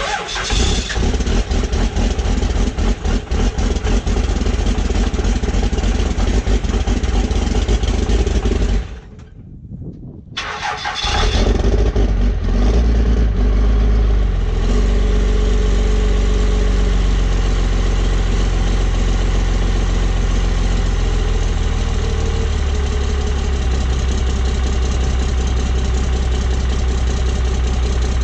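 Cold start of a 1997 Dodge's 12-valve Cummins 5.9 L inline-six diesel: the starter cranks for about nine seconds, stops briefly, cranks again and the engine catches a little rough, then runs and settles to a steadier, lower idle near the end. The owner acknowledges an exhaust leak.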